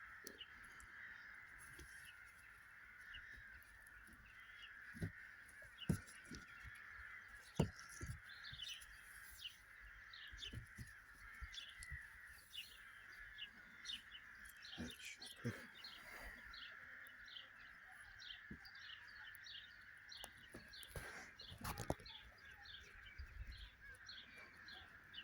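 Birds calling: a rapid run of short, repeated chirps, about two a second, starting about eight seconds in, over a steady high-pitched hiss. There are a few faint knocks and taps from handling the work.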